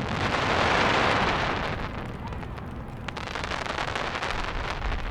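Aerial fireworks crackling: a dense rush of crackle that swells and fades over the first two seconds, then thinner scattered crackling over a low rumble.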